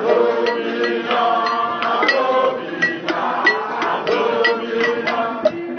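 A crowd of marchers chanting in unison over a steady percussion beat.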